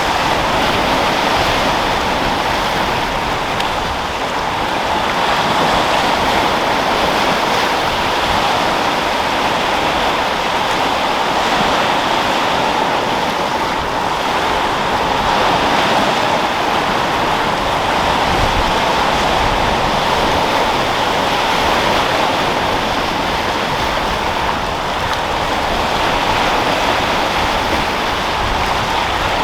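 Sea waves rolling and washing in with wind: a continuous rushing surf noise that swells and eases gently every several seconds.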